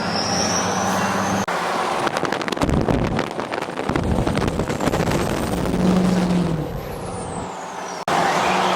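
Diesel pickup driving under way, its engine and road noise overlaid by a high turbo whistle that rises in the first second or so and falls away near the end.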